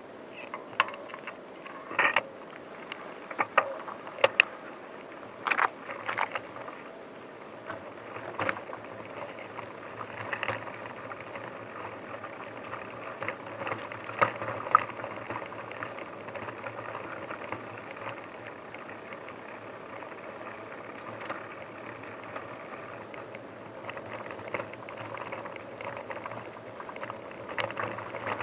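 Bicycle rattling over rough forest ground, with irregular sharp clicks and knocks, busiest in the first several seconds and again near the end.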